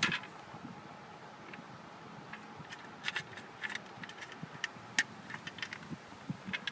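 Scattered sharp clicks and light plastic knocks of spark plug wire boots and a distributor cap being handled, as the wires are moved from the old cap to the new one. A sharper click comes right at the start, and a run of irregular clicks follows from about three seconds in.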